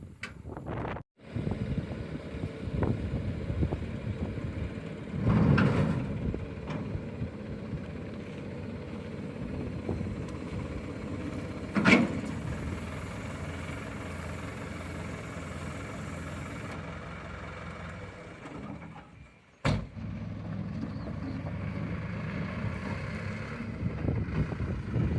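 Steady vehicle running noise, with a louder rumble about five seconds in and a sharp knock about twelve seconds in.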